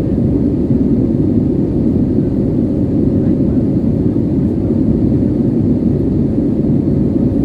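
Steady low rumble of an Airbus A320's engines and airflow heard inside the passenger cabin, with a faint steady hum riding on it.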